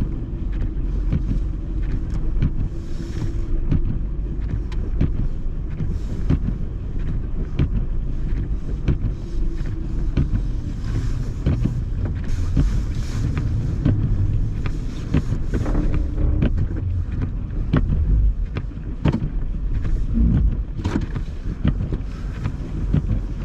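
Engines running with a steady low rumble and a held drone at times, wind buffeting the microphone, and scattered clunks and knocks, as a car stuck in deep snow is pulled out by a snowplow.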